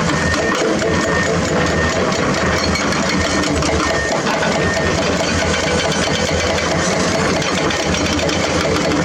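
Diesel engine of heavy construction machinery running steadily and loud. A faint high whine comes and goes during the first two seconds.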